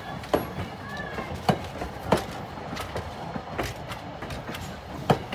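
Railroad passenger cars rolling along the track: a steady rumble with irregular sharp clicks and knocks from the wheels over the rails.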